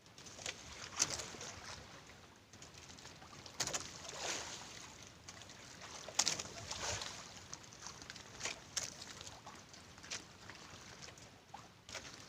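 Water sloshing and splashing against a small boat, with irregular sharper splashes now and then.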